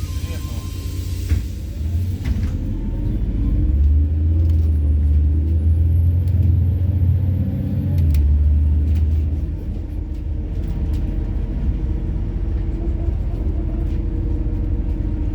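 Methane-fuelled MAZ-103 city bus heard from inside the cabin, pulling away and accelerating: the deep engine rumble builds and climbs in pitch, loudest midway, then eases back to a steadier drone.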